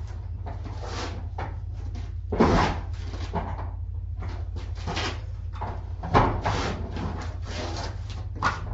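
Irregular knocks, bumps and scrapes of things being handled and shifted, over a steady low hum. Two louder knocks come about two and a half and six seconds in.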